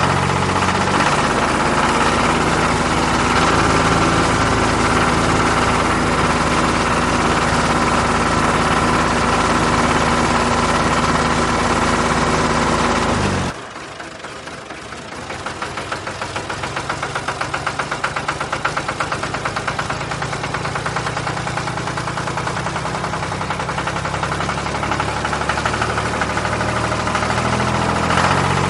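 A motor-vehicle engine running steadily. About halfway through it drops away suddenly, then a quieter, rapidly pulsing engine sound comes in and slowly builds back up.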